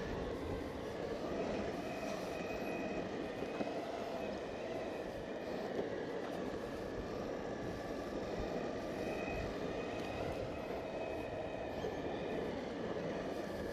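Exway Flex Pro V3 electric skateboard rolling on asphalt: a steady rumble from the wheels on the pavement, with a faint motor whine that comes and goes as the speed changes.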